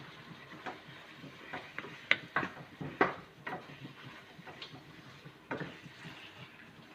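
Spoon knocking and scraping against a cooking pot as spices are stirred into chicken, in irregular clicks and knocks, the loudest a couple of seconds in.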